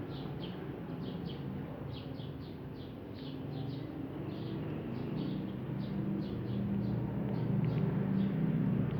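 Rapid series of short, high-pitched chirps, about three or four a second, over a low rumble that grows louder near the end.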